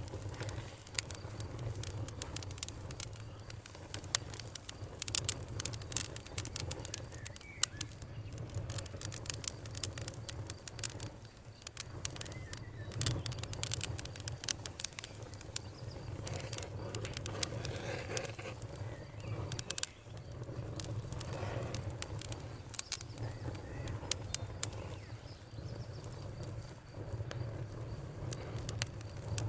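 Wood campfire crackling, with many sharp pops and snaps from the burning wood over a steady low hum.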